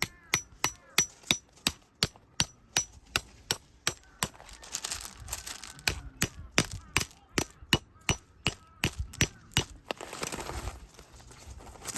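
A rapid, even series of sharp metallic clangs, about two and a half strikes a second, some with a brief high ring, stopping a couple of seconds before the end.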